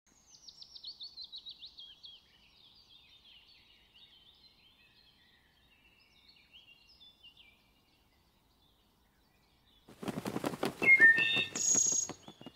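Northern cardinal song: a quick run of high whistles, each falling in pitch, then softer scattered chirps. About ten seconds in comes a loud, fast clatter of clicks with a few bright ringing tones, a sound effect for the channel logo.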